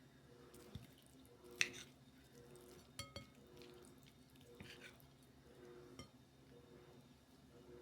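Faint, scattered clinks of cutlery and crockery during a meal: a few light taps and two brighter ringing clinks, the loudest about a second and a half in.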